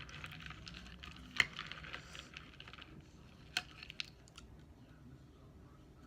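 Light handling of a bowl of dry cereal: a few sharp clicks and small rattles, two louder ones about a second and a half in and past the middle.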